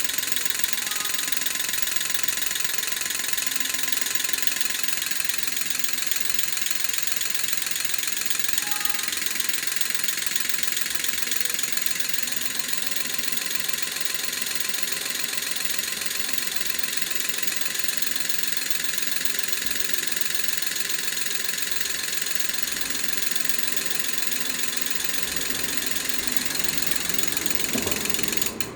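Scania unit injector solenoids clicking rapidly and evenly as the engine control module pulses them in response to simulated engine speed and phase signals. The injectors firing show that the module is driving them.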